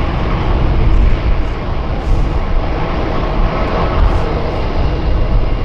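Jet airliner engines running loud and steady, a dense rumble with a broad roar above it.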